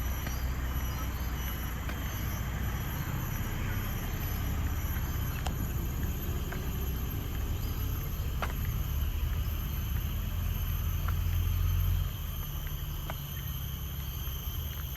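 Low rumble of road traffic that drops away suddenly about twelve seconds in, under a steady high-pitched insect drone, with a few faint ticks.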